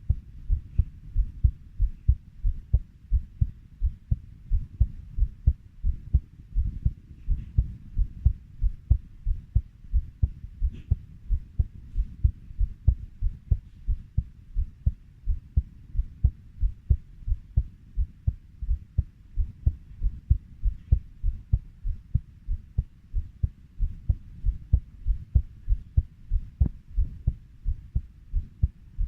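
Heartbeat beating steadily at 90 beats per minute, each beat a low, paired lub-dub thump.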